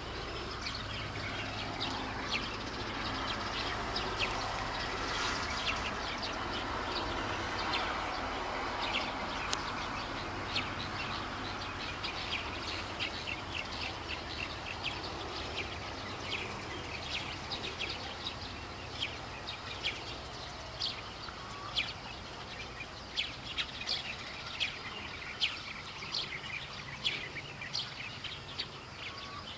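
Many short, high bird chirps repeating over a steady outdoor background noise.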